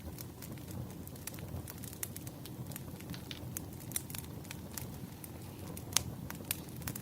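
Firewood burning: a steady low rumble of flames with frequent sharp crackles and pops. The loudest pop comes about six seconds in.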